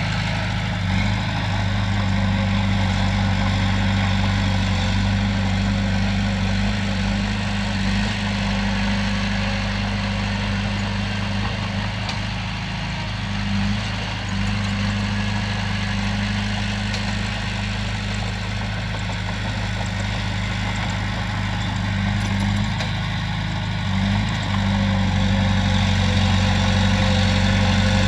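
Komatsu bulldozer's diesel engine running steadily, with a deep hum and a thin steady whine above it; the level dips briefly a couple of times.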